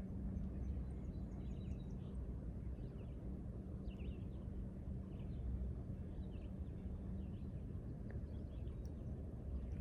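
Outdoor ambience: a steady low hum and rumble, with small birds chirping faintly and intermittently over it.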